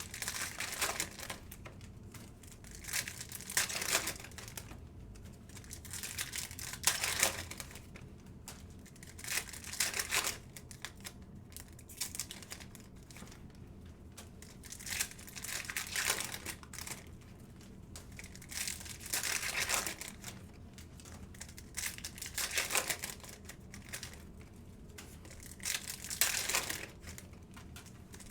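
Foil trading-card pack wrappers crinkling and tearing as packs are opened, in short bursts about every three seconds.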